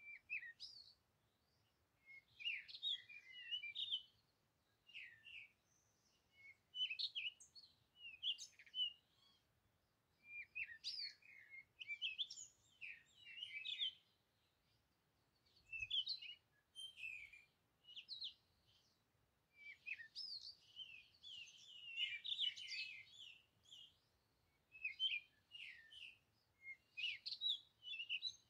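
Small birds chirping, short high calls coming in clusters every second or two.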